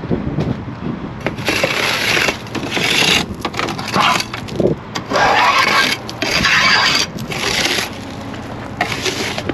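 Snow being crunched and scraped in irregular strokes, each lasting about half a second to a second, with short pauses between.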